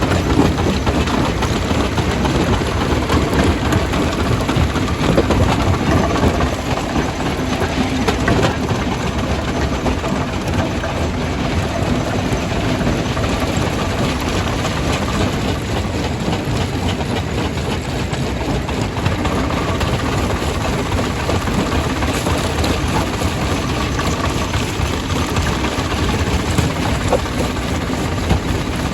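Rock crusher running and crushing stone: a loud, steady mechanical din of dense rattling and knocking without a break.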